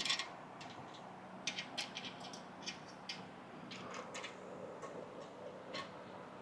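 Small metal washers clicking and clinking as they are handled and fitted onto studs: about a dozen light, sharp clicks at irregular intervals, the loudest right at the start.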